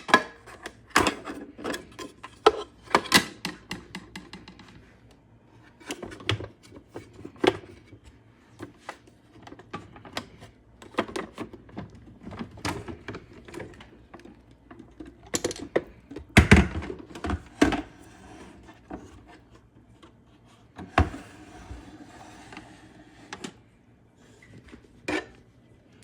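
Irregular plastic clicks, knocks and clatter of an aquarium canister filter being handled: hoses disconnected and the unit moved and unlatched, with one heavier thump about two-thirds of the way through.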